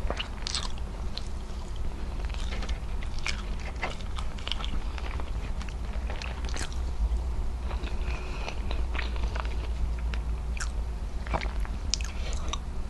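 Chewing of braised beef trotter in adobo sauce with rice, eaten by hand, with many short wet clicks from the mouth and the fingers at the food.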